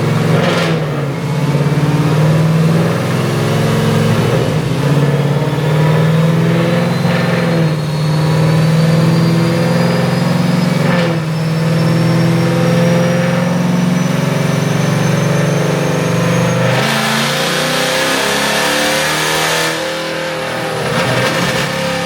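Car engine under load during a dyno pull, with a thin whine that rises slowly and steadily in pitch throughout. About seventeen seconds in, a louder rushing noise takes over for a few seconds, and then the engine note drops.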